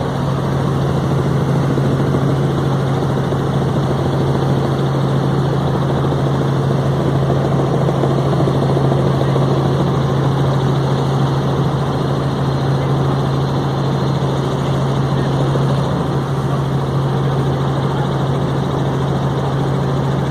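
Helicopter running steadily in flight: an even rotor and turbine noise with a strong constant low hum, unchanging throughout.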